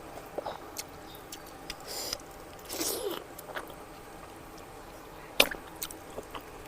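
Close-miked chewing and mouth sounds of a person eating fatty mutton curry: scattered wet smacks and sharp clicks, with two longer breathy hisses about two and three seconds in.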